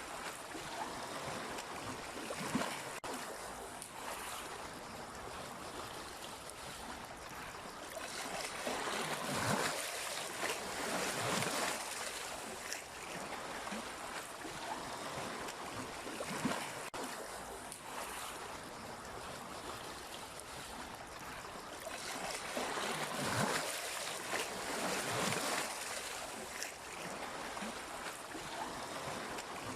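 Sea waves washing onto the shore in an even rush of water. It swells into louder surges twice, about a third of the way in and again past two-thirds, then falls back.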